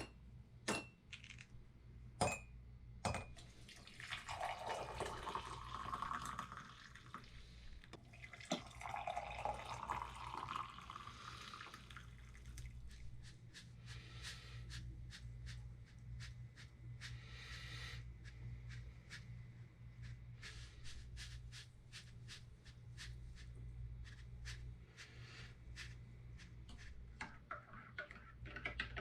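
Water dripping and running in two short spells, then irregular dripping ticks, over a low steady hum.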